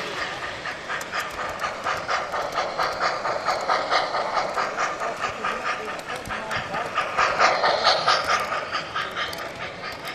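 Train running with a steady rhythmic beat, about four a second, over a hiss; it swells louder about eight seconds in, then eases off.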